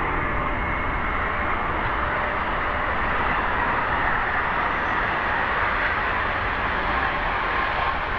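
Steady jet roar of a landing Boeing 777-200ER airliner, with faint steady whining tones.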